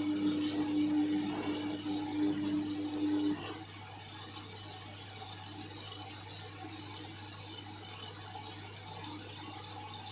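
Indesit MyTime washing machine on a bedding rinse. The drum motor runs with a steady hum as the drum turns slowly through the water, then stops about a third of the way in, leaving quieter water sloshing in the drum. This is the pause between the slow rotations of an anti-allergy-style rinse.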